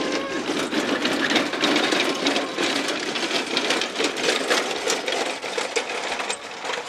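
A dense, rapid clatter of many small clicks and knocks, thinning out near the end.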